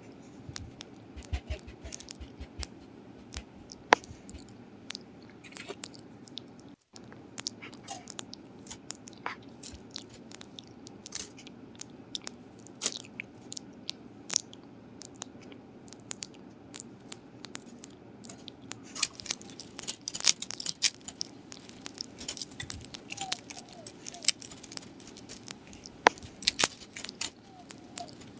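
Dog eating close to the microphone: sharp clicking bites and chewing, sparse at first, then coming thick and fast from about two-thirds of the way in and again near the end.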